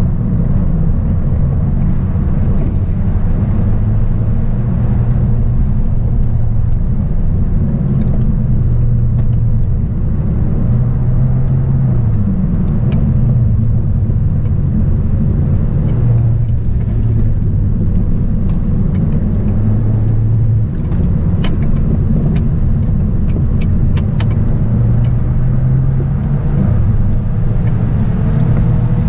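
Volkswagen Golf driven hard on a track, heard from inside the cabin: a loud, steady engine and road rumble, the engine note rising and falling again and again as the car accelerates and slows. A few light clicks come in the last third.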